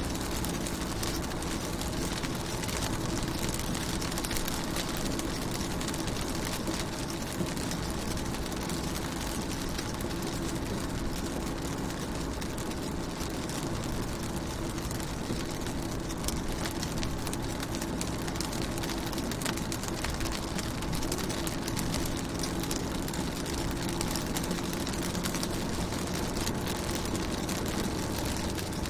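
Rain pattering on a car window: a steady hiss of many small drop ticks, with a steady low hum underneath.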